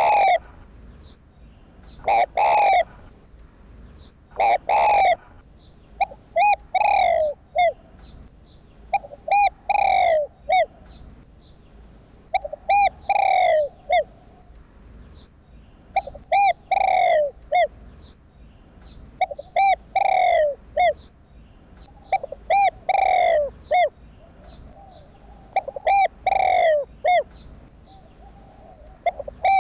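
Spotted dove cooing: short phrases of a few throaty coos, repeated roughly every three seconds. It is a calling recording of the kind played to excite a captive decoy dove into calling.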